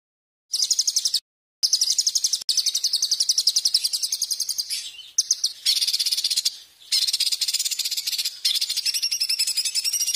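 Songbird song of very fast, harsh, high-pitched trills ('speek' screeches), in long phrases of rapidly repeated notes. The phrases are cut apart by sudden drops to dead silence, as in an edited recording.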